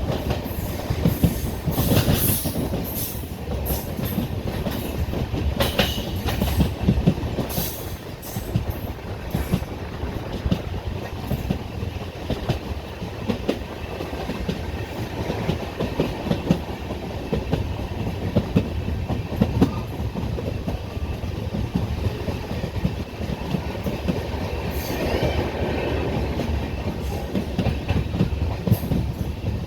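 Express train's passenger coaches rolling along the track, their wheels clattering steadily over the rail joints.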